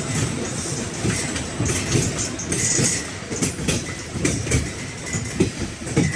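White Pass & Yukon Route train running along the track, its wheels clacking and its cars rattling.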